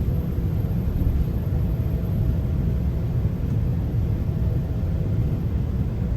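Steady low rumble of a GO Transit commuter train running between stations, heard from inside a passenger coach, with a faint steady tone over it.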